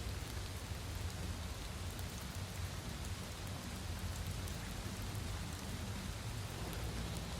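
Heavy rain pouring steadily and pattering on a surface, an even, unbroken hiss with a low drumming underneath.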